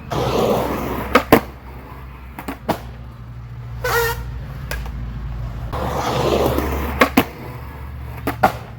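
Skateboard wheels rolling on pavement, broken by sharp wooden clacks of the tail popping and the board landing, twice in quick pairs: ollie-to-nose-manual attempts. A short scraping squeal comes about halfway through.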